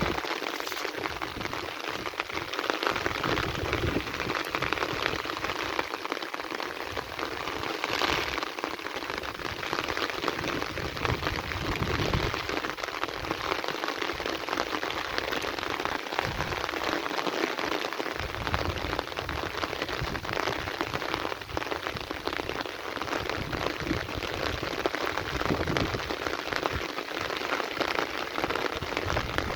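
Heavy rain falling steadily on a surface, a dense hiss of many drops.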